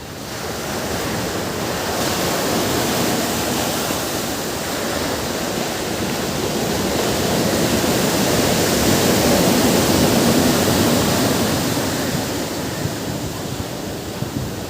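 Ocean surf washing onto a beach: one long swell of rushing water that builds over the first several seconds, peaks past the middle and eases off near the end.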